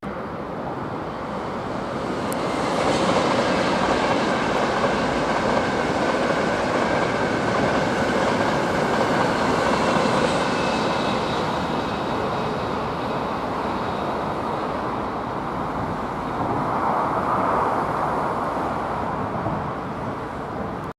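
Steady rumble and hiss of a moving vehicle, with faint high whining tones. It grows a little louder about two seconds in and holds steady.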